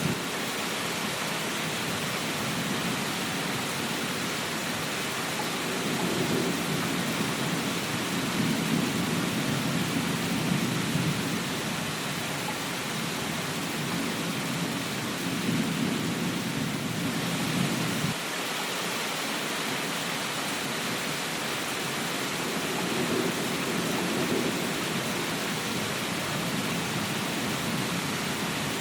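Steady rain hiss with low rumbles that swell and fade several times, the rumble cutting off abruptly a little past halfway.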